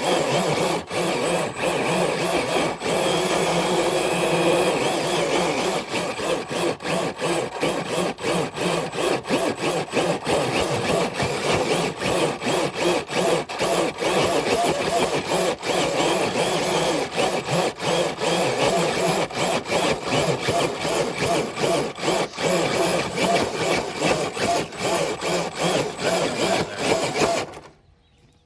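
Traxxas TRX4 RC truck's electric motor and geared drivetrain running hard under load as it drags a brick-weighted dead sled. From about six seconds in the sound turns choppy with many quick breaks. It stops abruptly near the end.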